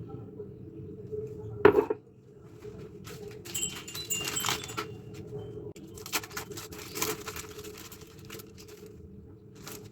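Kitchen utensils and dishes clinking and scraping in clusters, after one sharp knock about 1.7 s in.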